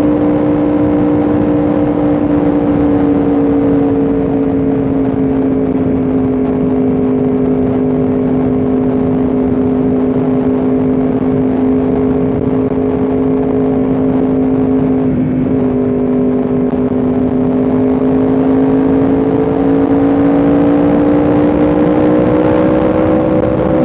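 Yamaha R1M's crossplane inline-four engine running at a steady cruise under way, its pitch easing slightly early on. It dips briefly about two-thirds through, then rises gradually near the end as the revs build.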